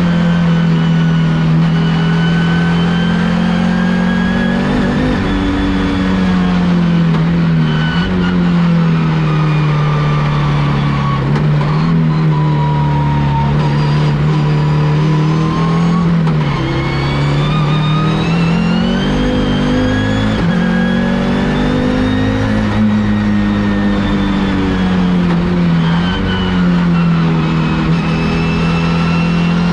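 Audi S2-R race car's turbocharged five-cylinder engine under hard load, heard from on board: revs climb and fall again and again through gear changes and corners, with short drops in pitch every few seconds.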